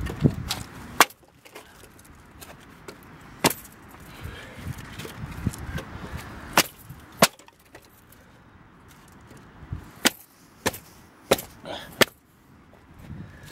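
Dry wood cracking and snapping: about ten sharp cracks, unevenly spaced a second or two apart.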